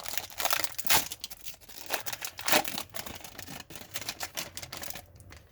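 Card pack wrapper crinkling and tearing open, with the cards rustling and clicking against each other as they are handled: a quick string of small rustles and clicks, louder about one second in and again near the middle.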